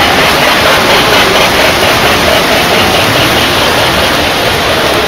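Model trains running on a show layout: a steady, loud rushing rumble of toy trains rolling on track, with no single event standing out.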